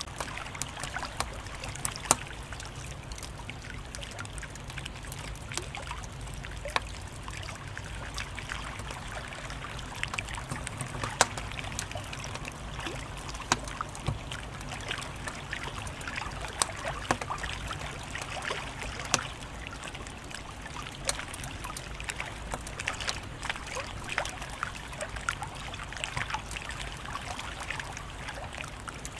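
Wood fire crackling: a steady low hiss with frequent small snaps and pops, and a handful of louder pops scattered through.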